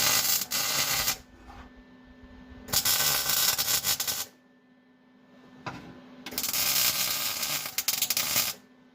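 Welder arc crackling in three short bursts of about one and a half to two seconds each, with pauses between, as sheet-metal floor patches are stitch-welded into a car body.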